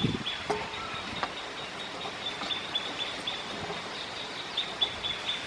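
Small birds chirping: a string of short, high notes repeating irregularly, with a few faint clicks.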